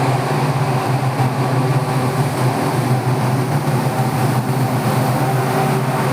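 Mumbai suburban electric local train running, a steady low hum over continuous rushing rail noise.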